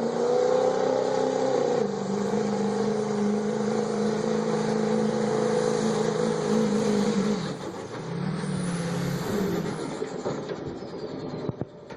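Diesel pickup truck engine at full throttle pulling a truck-pull sled, holding a steady pitch for about seven seconds. It then backs off, revs briefly once, and a high whistle rises and falls away as the run ends.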